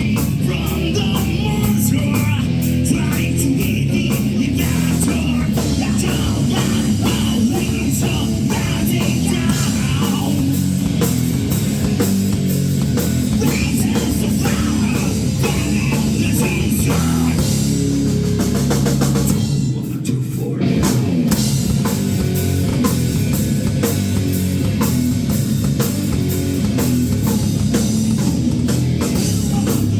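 A rock band playing live and loud: drum kit, electric guitar and bass, with a short drop in the band's sound about two-thirds of the way through.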